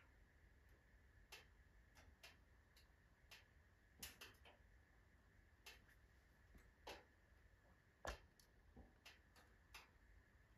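Wood fire crackling in a stove, mostly oak logs burning down: irregular sharp pops and snaps, roughly one or two a second, with a louder pop about eight seconds in.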